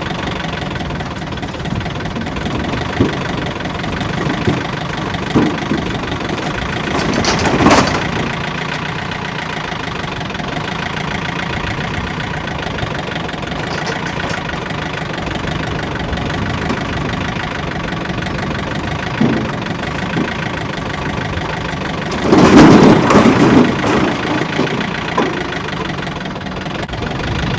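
An engine running steadily throughout, with a loud clatter of firewood tumbling about 7 seconds in and a longer, louder spill of split wood from about 22 to 25 seconds in, as a tote of firewood is dumped.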